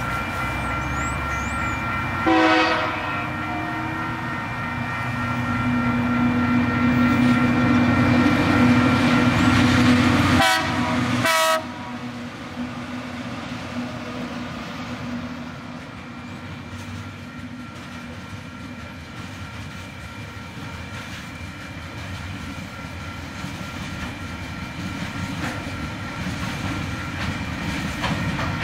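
TasRail TR class diesel locomotives hauling a container freight train past a level crossing. A short horn blast sounds about two seconds in, the locomotive engines grow louder as they come by, and two more horn blasts around ten to eleven seconds in cut off sharply. After that the container wagons roll past with a steady rumble of wheels on the rails, while the crossing's warning bell rings in steady high tones throughout.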